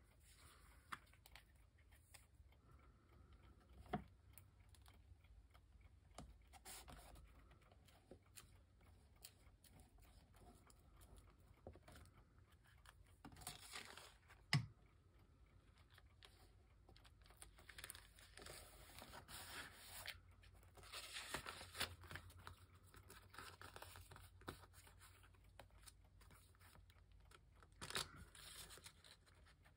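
Faint rustling of paper being handled, with a few sharp taps scattered through.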